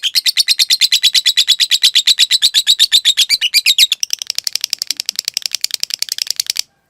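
Lovebird doing a long, fast chattering trill (the 'ngekek panjang' prized in fighter lovebirds): sharp high notes in an even rapid run, about a dozen a second. About four seconds in the notes turn higher and quieter, and the trill cuts off abruptly near the end.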